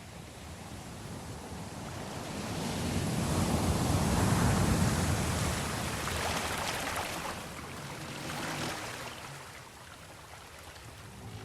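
Sea waves: a swell of surging water noise that builds to a peak about four seconds in and then washes away, with a smaller surge near the end.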